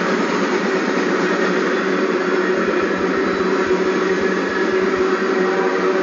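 Freight cars rolling past: a steady roar of steel wheels on rail with a faint hum running through it.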